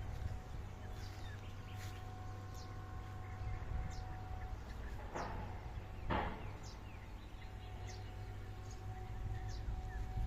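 Birds chirping: many short, high, falling calls scattered throughout, with two louder falling calls about five and six seconds in, over a steady low rumble.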